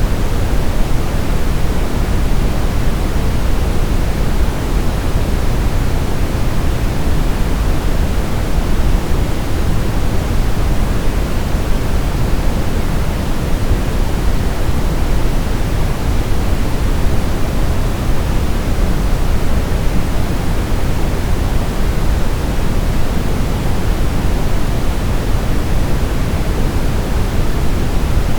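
Steady brown noise: an even, unbroken rushing hiss weighted heavily toward the bass, with the treble much softer.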